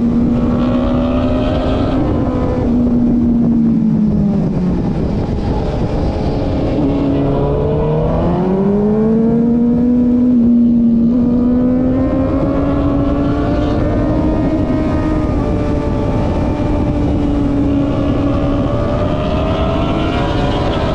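Onboard motorcycle engine running hard on track, with wind rushing over the microphone. The revs fall from about two seconds in, stay low briefly, then climb steeply around eight seconds in and hold high.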